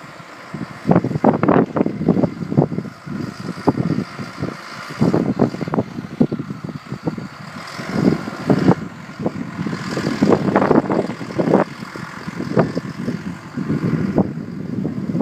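Wind buffeting the microphone in uneven low rumbling gusts after a blizzard.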